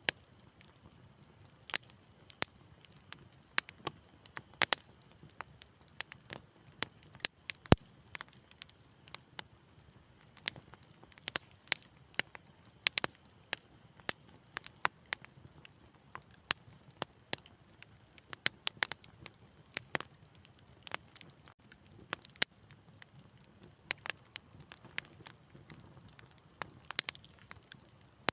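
Wood fire crackling: irregular sharp pops and snaps, a few each second, over a faint low rumble of the flames, with one louder pop about eight seconds in.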